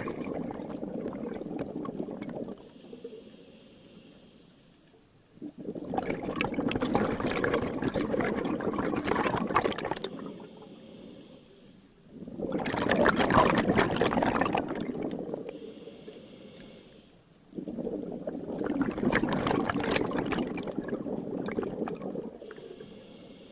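A scuba diver breathing through a regulator underwater. Four long exhalations send out rumbling, gurgling bursts of bubbles about every five or six seconds, and a faint hiss of inhaled air comes in the quieter gaps between them.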